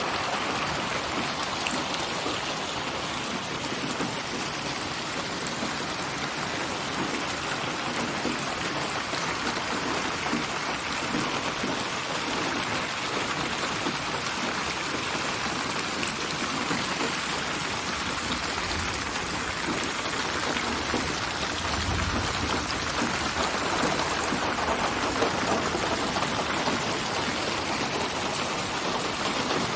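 Steady rain falling, an even hiss of many drops on surfaces, with a faint low rumble swelling briefly about two-thirds of the way through.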